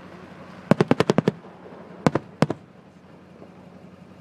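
Fireworks going off: a quick string of about seven sharp bangs in just over half a second, then two more single bangs about a second later.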